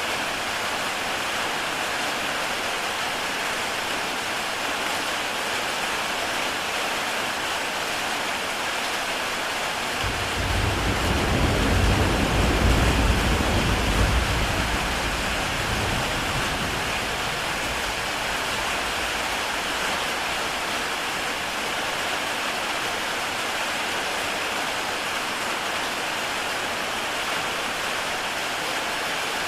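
Heavy rain falling on a tile roof, a steady dense hiss. About ten seconds in, a low rumble of distant thunder swells and fades away over some six seconds.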